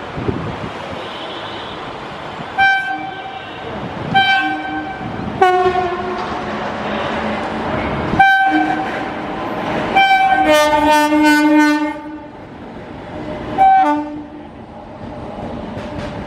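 WAG-9 electric locomotive sounding its horn: five short toots and one longer blast of about two seconds, over the steady rolling rumble of a long freight train.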